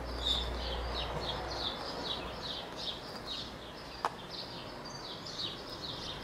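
A small bird chirping over and over, short high notes at about three a second with a brief pause near the end. A single sharp click about four seconds in.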